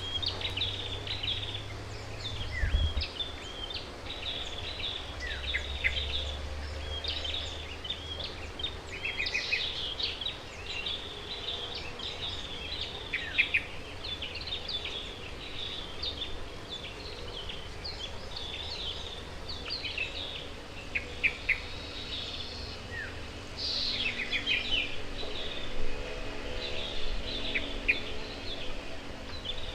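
Several small wild birds chirping and twittering in quick, overlapping short calls, over a faint low background hum.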